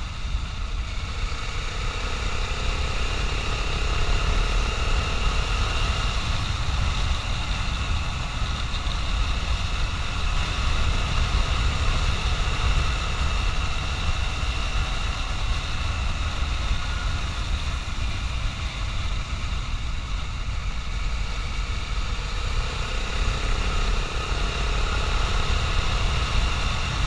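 Dual-sport motorcycle engine running steadily while being ridden at road speed, with a heavy low rumble of wind on the microphone.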